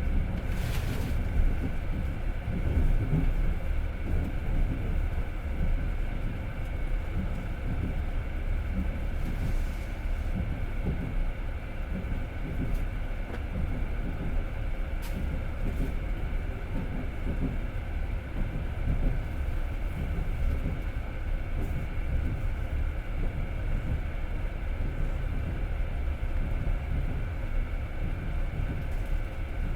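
Passenger train running at speed, heard from inside the carriage: a steady low rumble of wheels on the rails, with a few faint clicks.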